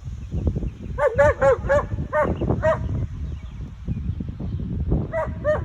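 A dog barking in quick runs of high-pitched barks: about six in a row in the first few seconds, then two more near the end. A low rumbling noise runs underneath.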